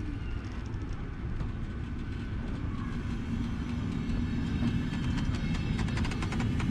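Passenger train running on the track, a steady low rumble that grows slowly louder, with a hum coming in about halfway and a quick run of clicks near the end.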